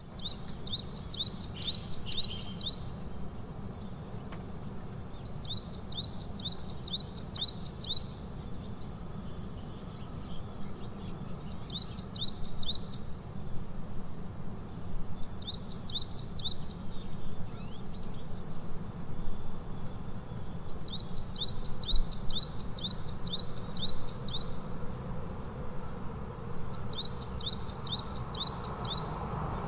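A songbird repeats a short phrase of about six quick, high, downward chirps, in bouts lasting a second or two every four to six seconds. A steady low rumble of wind or outdoor noise runs underneath.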